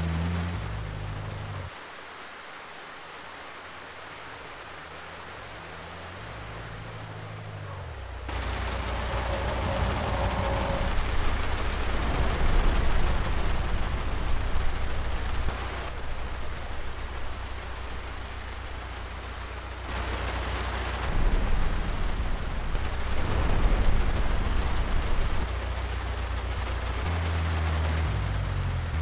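Steady heavy rain hiss that comes in strongly about eight seconds in and swells at times, with low music notes under the opening and near the end.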